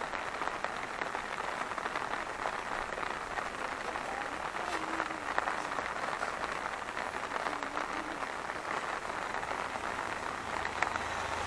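Heavy rain falling steadily: an even hiss dense with the ticks of drops hitting.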